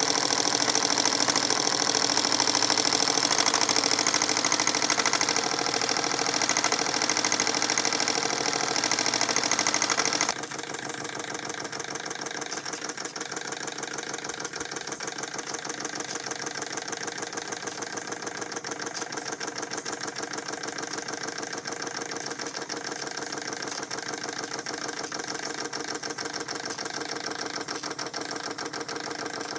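Model marine steam engine running with a fast, even beat and a hiss. About ten seconds in the hiss drops away abruptly and the sound gets quieter, leaving the steady running beat.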